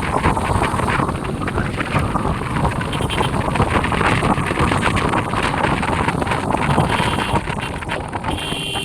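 Wind rushing over the microphone on a moving motorcycle, with the engine and road noise underneath, steady throughout.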